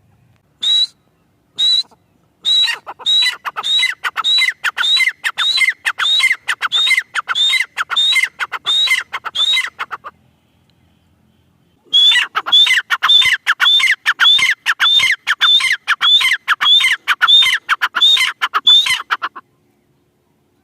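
Francolin (teetar) calling loudly in a long series of short, downward-sliding notes, about two a second. The calls pause for about two seconds midway, then resume and stop shortly before the end.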